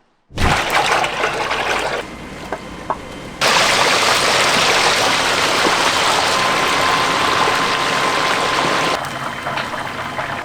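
Whole chicken frying in a vat of hot oil, sizzling steadily. The sizzle cuts in after a moment of silence, gets louder about three and a half seconds in, and eases near the end.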